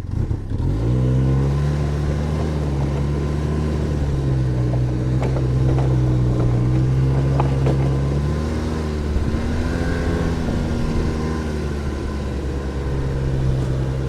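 Snowmobile engine revving up as it pulls away, then running steadily under load while breaking trail through about a foot of fresh snow, its pitch rising and falling with the throttle.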